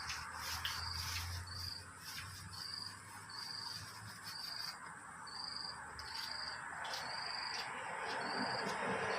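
Insect chirping: a short, high chirp repeated about every 0.7 seconds at an even pace. Near the end, a passing vehicle's noise begins to rise.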